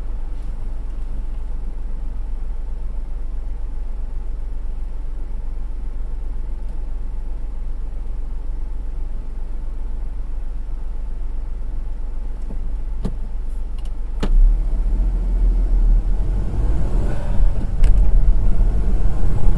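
Honda S660 being driven: a steady low rumble of engine and road noise. A couple of sharp clicks come near the end, then the rumble turns louder and rougher.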